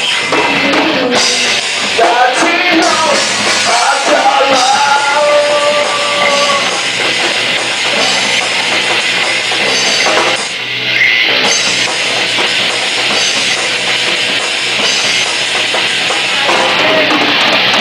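Rock band playing live: a drum kit driving under guitars, with a melodic line over the first several seconds.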